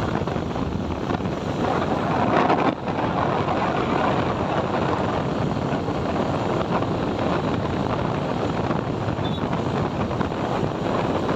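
Wind rushing over the microphone of a moving motorcycle, with engine and road noise under it. A louder surge builds over the first few seconds and drops off suddenly near the three-second mark.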